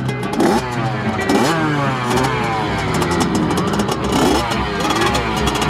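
Several dirt bike engines revving on a motocross track, their pitch repeatedly climbing and dropping as the bikes accelerate and shift.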